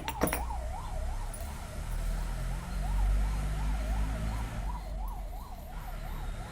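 A siren wails up and down about twice a second, with a low rumble underneath. A couple of sharp knocks come right at the start.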